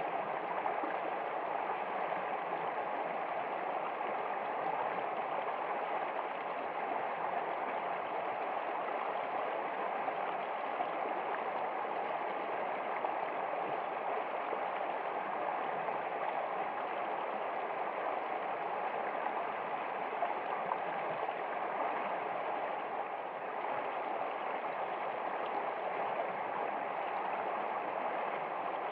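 Flowing water of a stream, running steadily without change.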